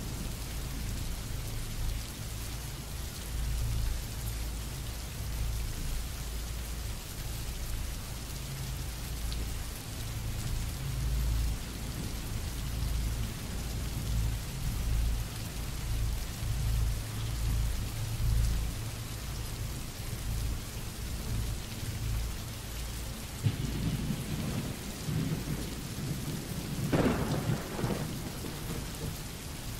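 Thunderstorm: steady rain with low thunder rumbling throughout, and a louder peal of thunder near the end.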